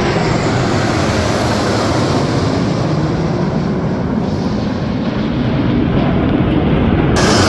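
Jet aircraft engine noise, a loud steady rushing sound, from a military airshow flypast. The sound brightens abruptly near the end.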